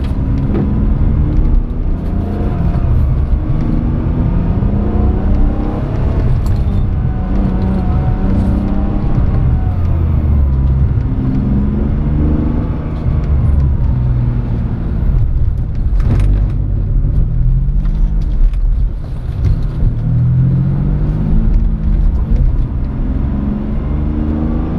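Car engine driven around a track, its revs repeatedly rising and falling as it accelerates and lifts off, over a steady low rumble.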